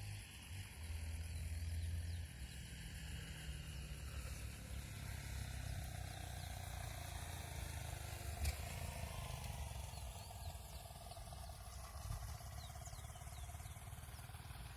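Low, steady rumble of the diesel-electric locomotives of a heavy iron-ore train, with a faint whine that slowly shifts in pitch and one sharp click about eight seconds in.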